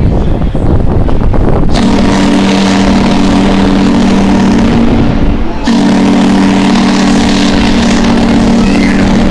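Steam whistle of L&N 576, a 4-8-2 steam locomotive, sounding two long, steady blasts with a brief break between them, starting about two seconds in. Its deep chord of several notes is blown over wind on the microphone.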